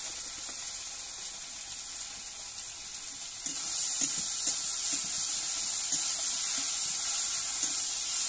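Onion, ginger-garlic paste and spice powders frying in oil in a steel kadai over a wood fire: a steady sizzle that grows louder about three and a half seconds in, when the masala is stirred with a metal spatula.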